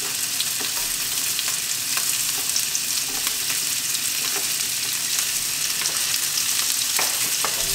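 Green beans frying in hot oil in a wok: a steady sizzle with scattered small pops and ticks.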